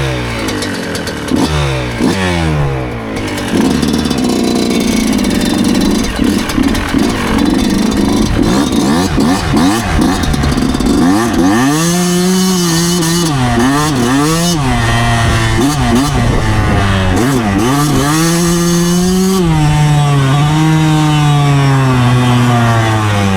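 2009 Yamaha YZ125 125cc two-stroke single-cylinder engine under way, its pitch rising and falling repeatedly as the throttle is opened and closed. There is a rougher, steadier stretch in the middle, then a run of revs climbing and dropping back over and over.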